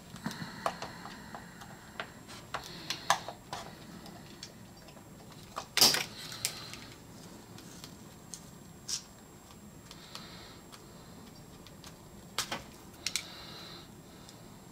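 Scattered clicks and taps with a few short scrapes from hand work on a plastic car door trim piece being repaired with epoxy; the sharpest click comes about six seconds in.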